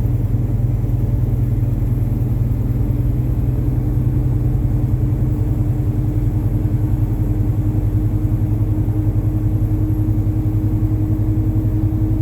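Diesel truck engine and road noise droning steadily while driving, with a steady low hum and no change in pitch.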